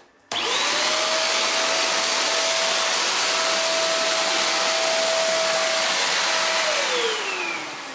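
Clatronic BS 1306 hand vacuum cleaner switched on: its motor spins up fast into a loud, steady whoosh of suction with a steady whine, runs for about six seconds, then is switched off near the end and winds down, the whine falling in pitch.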